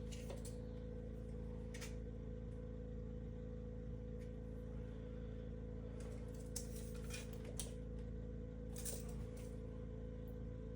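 Scattered light metallic clinks and taps, a few at a time, over a steady low hum.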